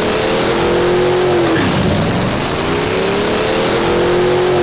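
A car engine revving twice, its pitch climbing for about a second and a half each time before it drops quickly back down, over a steady low engine note.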